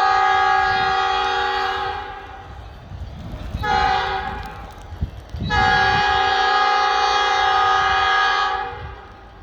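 Locomotive air horn sounding a chord of several tones: a long blast that ends about two seconds in, a short blast, then another long blast, the tail of a grade-crossing signal.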